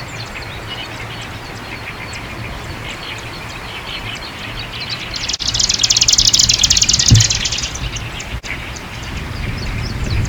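Marsh grassbird singing: a loud, rapid rattle of repeated notes lasting about two and a half seconds a little past the middle, among fainter chirps, over a low rumble of wind.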